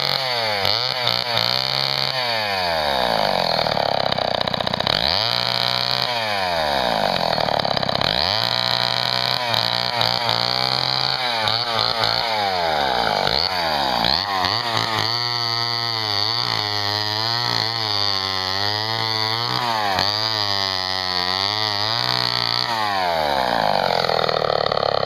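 Homelite XL12 chainsaw's 54cc two-stroke engine running and being revved over and over, its pitch climbing and falling with each pull of the throttle. The revs come in slow swells at first, then in quicker blips about once a second.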